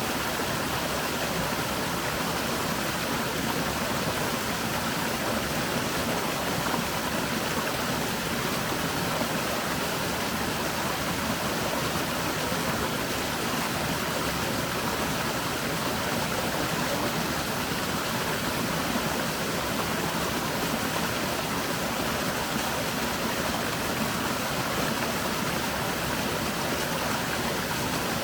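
Steady, even rushing of water that holds level throughout.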